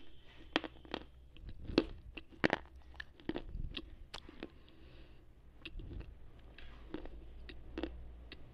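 Slate pencil being bitten and chewed close to an earphone microphone. It gives irregular hard crunches and clicks, thick in the first half and thinning out toward the end.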